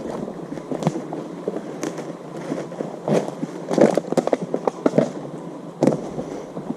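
Steady running water, with irregular clicks and knocks scattered over it.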